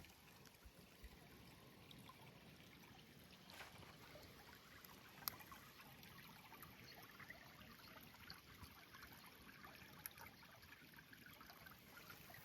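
Faint trickle of water poured onto the ground while watering, with a few small clicks; the sharpest comes about five seconds in.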